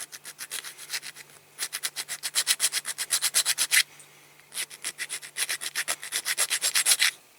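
Hand file scraping back and forth on a diecast zinc-alloy rivet post, about six quick strokes a second, in three runs with brief pauses. The rivet post is being filed flat so it can be drilled out and the model taken apart.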